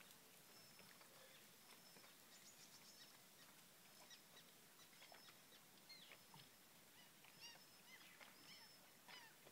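Faint birdsong: many short, high chirps and whistles, some falling in pitch, over a low steady hiss.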